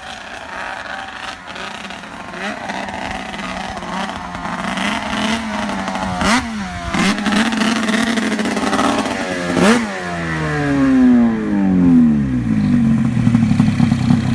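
Snow machine engine revving hard around the snowcross track. The throttle is chopped and opened again several times over the jumps, then the pitch winds down after about ten seconds and settles into a low steady idle near the end.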